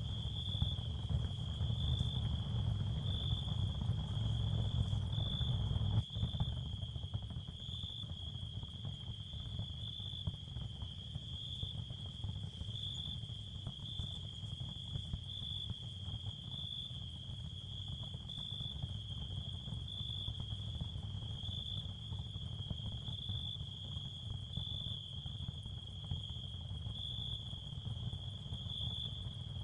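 Ambient nature sound field of crickets chirping in a steady, high-pitched band that pulses about once a second, over a low rumble that drops a little about six seconds in.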